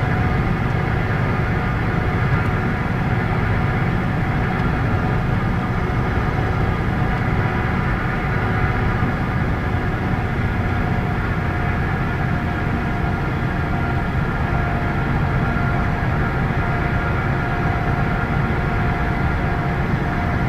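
Scania K113 bus's diesel engine running steadily, a low drone with a few steady whining tones, heard from inside the moving bus.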